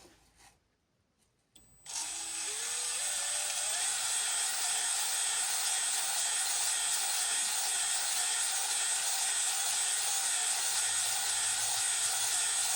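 Power drill spinning a cylinder hone against an engine cylinder wall, with an abrasive grinding. It starts suddenly about two seconds in, with a whine rising as it spins up, then runs steadily.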